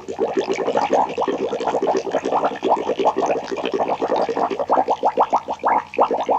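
Horror sound effect: a dense, unbroken chatter of quick rising chirps, about ten a second, with no pause.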